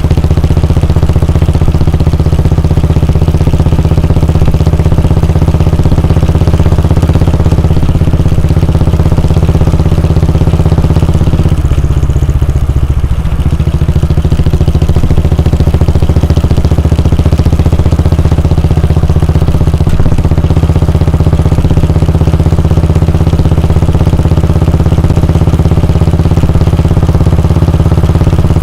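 Royal Enfield Bullet 350's air-cooled 349 cc single-cylinder engine idling steadily, its exhaust giving an even, loud thump.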